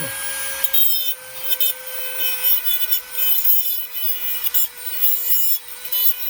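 A small high-speed power tool runs with a steady whine. From just under a second in, its bit grinds against metal in short, irregular bouts of scraping. It is cutting old bent valves out of a Volkswagen air-cooled big-valve cylinder head.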